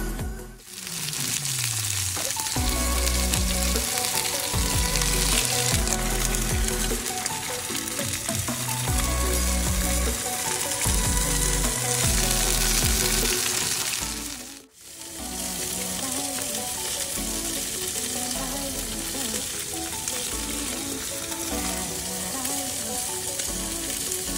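Egg-soaked bread slices frying as French toast, a steady sizzle in a hot nonstick pan. Background music with a heavy bass plays under it, and the sound drops out briefly twice.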